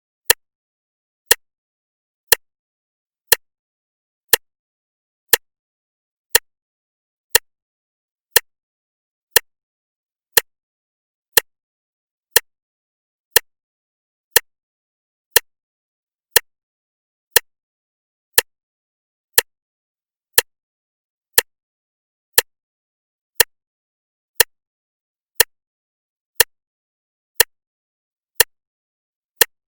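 Clock ticking steadily, one sharp tick about every second, with dead silence between the ticks.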